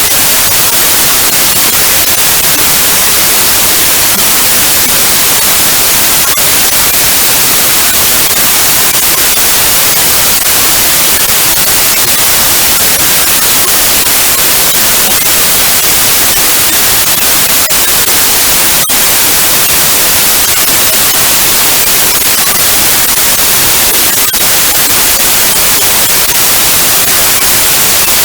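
Loud, steady white noise generated by software: an even hiss across all pitches, with no changes in level.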